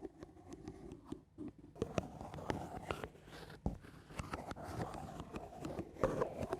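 ASMR scratching: slow, soft scratching strokes close to the microphone, broken by irregular small clicks and taps, with a brief lull about a second in.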